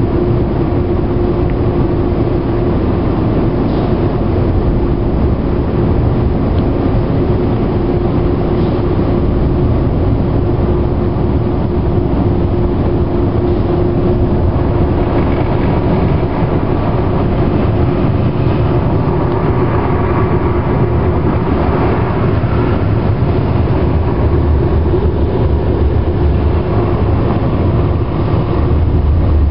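Automatic car wash air dryer blowers running: a loud, steady rush of air with a hum that fades out about halfway through.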